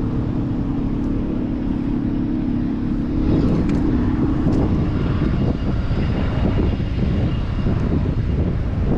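Street traffic: a nearby motor vehicle's engine runs with a steady hum that fades about five seconds in, leaving a rushing noise of traffic and wind.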